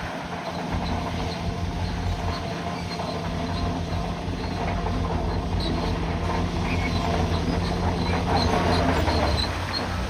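Bulldozer at work: its diesel engine runs steadily while its steel tracks give off high, thin squeaks. The engine note changes about nine seconds in.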